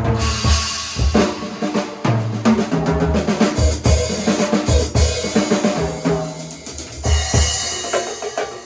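Drum kit played in a warm-up: rapid strokes on bass drum, snare and ringing toms in quick runs, with no pause.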